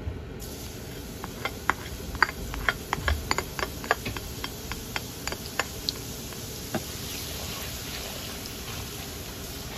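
Minced garlic frying in hot oil in a pan. A sizzle starts suddenly about half a second in, with many sharp pops and clicks over the next few seconds, then settles to a steady sizzle as it is stirred.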